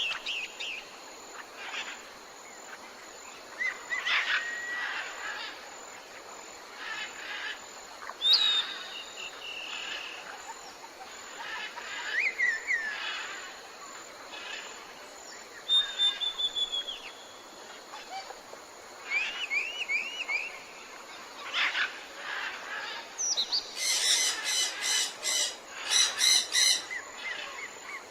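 Several forest birds chirping, whistling and trilling in short phrases over a steady high background hiss. From about 24 seconds a louder, harsh call repeats in quick pulses.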